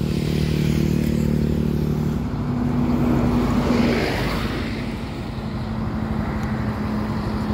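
Motorcycle engine running steadily while riding, its pitch stepping up about two seconds in and dropping back a couple of seconds later, with rushing wind and road noise that swells in the middle.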